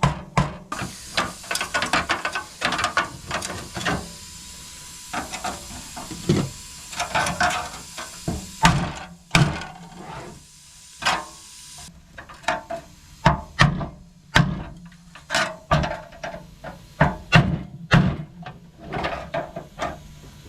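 Irregular run of hammer blows on metal, knocking a rusted reinforcement panel off a Honda C100's frame, with a steady hiss under the blows for roughly the first half.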